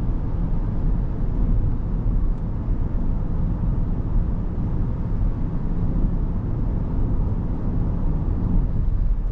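Steady low road and tyre rumble inside the cabin of a 2023 Rivian R1S electric SUV cruising on 22-inch wheels with all-terrain tyres.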